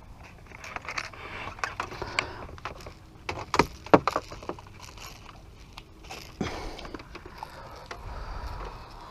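Clicks, light metallic rattles and knocks of a hooked gar being unhooked and handled in the boat, with a few sharp thumps about three and a half to four seconds in and again about six and a half seconds in.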